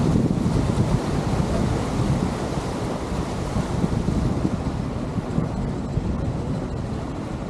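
Wind buffeting the microphone on a moving lake passenger boat, a steady gusty rumble with the rush of water beneath.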